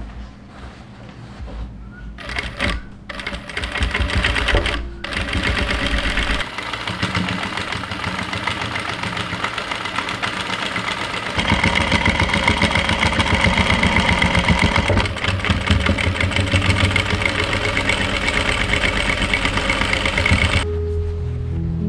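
Electric sewing machine stitching: a few short runs at first, then a steady fast run that gets louder about halfway through and stops shortly before the end.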